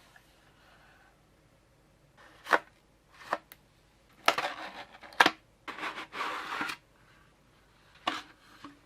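Packaging of a PC component being handled and opened: a few sharp taps and knocks, with two short stretches of scraping and rustling in the middle.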